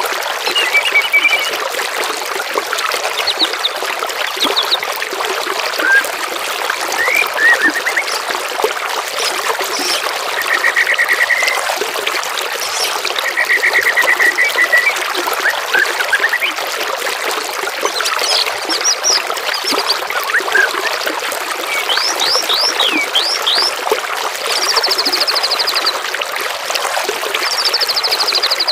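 Water trickling steadily, with a mix of songbirds calling over it in short trills and whistles. Two longer rapid trills come in the middle, and higher rapid trills near the end.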